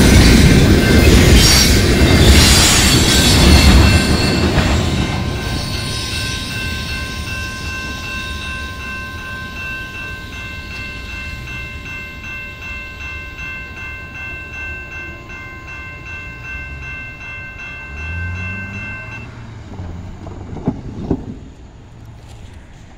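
Tank cars of a freight train rolling past, wheels clattering over the rail joints, fading away over the first few seconds. A railroad crossing bell keeps ringing steadily and stops about 19 seconds in, and two sharp knocks follow near the end.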